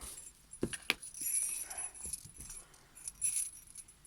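Small jingle bells shaken on and off in several short bursts, with a couple of short knocks about a second in.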